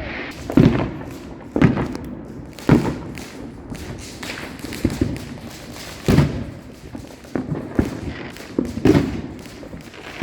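Neighbourhood fireworks going off, heard as a series of dull booming thumps at irregular intervals, about five of them loud.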